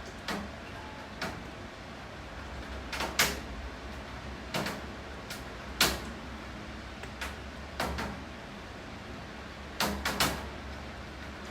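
Steady rain with heavy drops hitting a hard surface: sharp taps at irregular intervals, roughly one a second, some in quick pairs.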